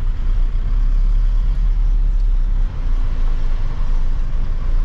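A heavy vehicle engine running with a steady low rumble.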